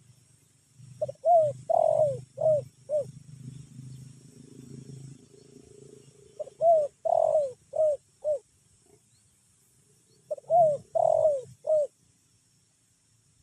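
Spotted dove (tekukur) cooing: three phrases of four or five short coos each, a few seconds apart. A low hum sits under the first part.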